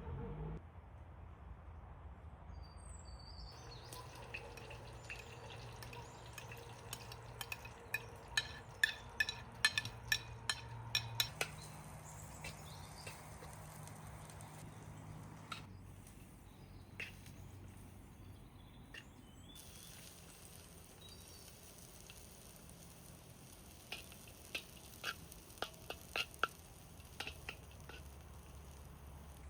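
Food cooking in a skillet over a wood fire, with a faint sizzle and two runs of sharp clicking taps, a few a second: a utensil stirring and knocking against the pan.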